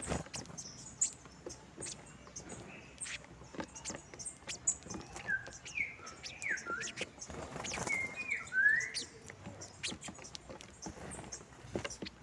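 Saffron finches calling while feeding: several short sweeping chirps in the middle, over many small scattered ticks and clicks.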